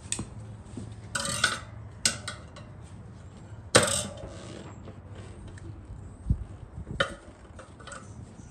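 Metal tire spoons clinking and knocking against a dirt bike's wheel rim as the tire bead is pried off, in a handful of separate sharp knocks, the loudest about four seconds in.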